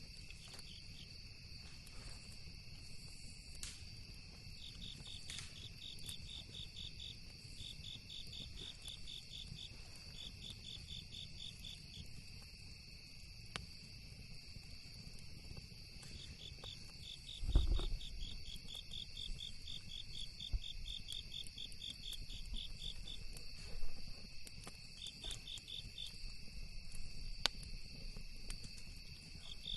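A chorus of insects: two steady high-pitched drones with trains of rapid pulsed chirps coming and going over them. Scattered sharp crackles from the campfire sound throughout, with one louder low thump just past halfway.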